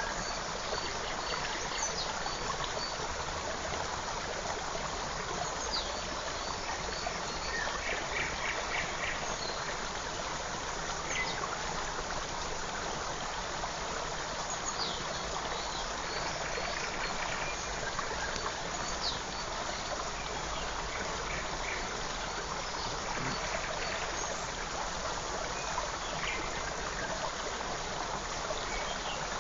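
Small forest creek running steadily, with scattered short bird chirps and a few brief trills over the water.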